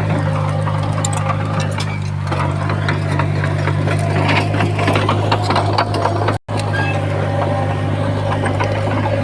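Komatsu bulldozer's diesel engine running steadily, with irregular metallic clanking and rattling over the low engine hum. The sound drops out for an instant a little past the middle.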